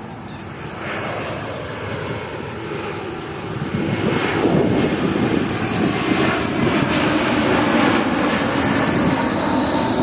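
Jet airliner flying low overhead on approach to land: its engine roar grows louder about four seconds in and stays loud, with a faint steady whine riding on it.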